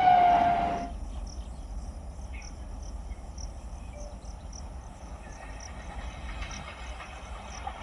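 A train horn's falling note dies away within the first second, leaving quieter outdoor ambience: insects chirping in short, repeated high pulses over a low rumble.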